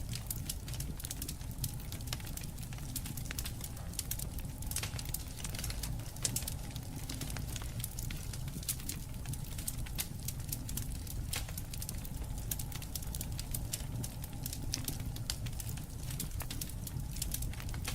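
Wood campfire crackling, with frequent sharp, irregular pops and snaps over a low steady rumble.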